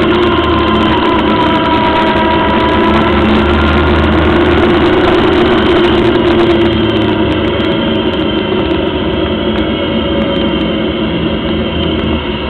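Onboard sound of a Locost kit car's 1300cc engine running at fairly steady revs while lapping, heard close up. The engine note eases off and gets quieter about halfway through.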